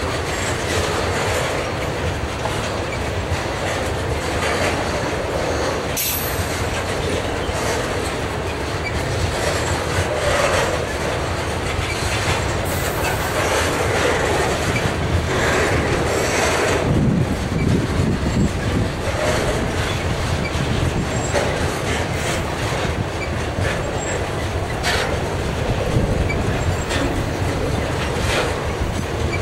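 A freight train's tank wagons rolling past close by: a steady rumble of steel wheels on the rails, with scattered sharp clacks as the wheels cross rail joints.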